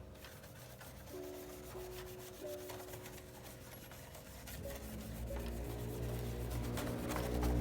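Scrubbing and rubbing at a surface during cleaning, a steady rough scratchy sound, under background music with held notes that swells louder about five seconds in.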